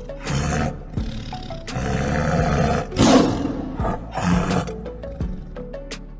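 Tiger roaring and growling in several rough bursts, the loudest about three seconds in, over background music with a steady beat.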